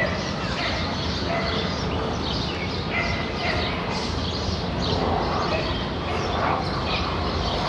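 Birds chirping again and again in short calls over a steady low background rumble.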